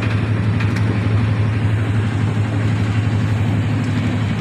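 Steady low hum of an idling engine, unchanging throughout, over a constant background rumble.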